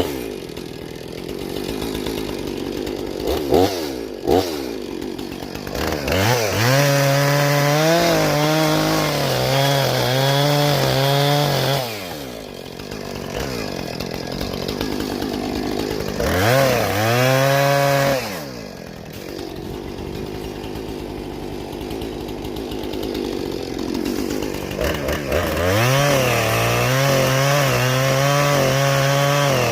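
Gas chainsaw cutting into a tree trunk. It revs up under load, drops back to idle about halfway through and again after a brief burst, then revs up and cuts again near the end. A few short knocks come a few seconds in.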